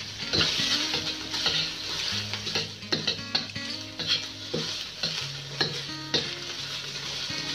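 Sliced fishcake sizzling in hot oil in a steel wok, being fried until dry, while a metal wok ladle stirs it, scraping and clinking against the pan about every half second.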